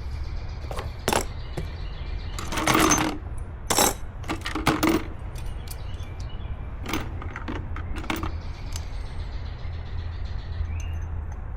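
Scattered clinks and knocks of hard objects being handled, with a few louder rattling bursts a few seconds in, over a steady low rumble.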